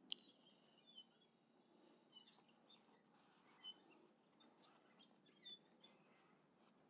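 Faint bird chirps: a few short, high calls scattered here and there, with one sharp click right at the start.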